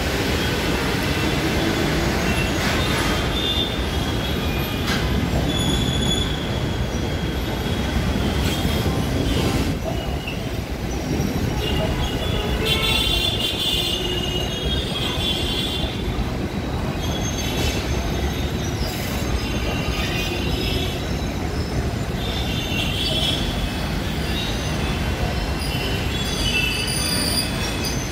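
Indian Railways passenger coaches rolling past as the train pulls into the station: a steady rumble of wheels on rail, with high-pitched wheel squeal coming and going.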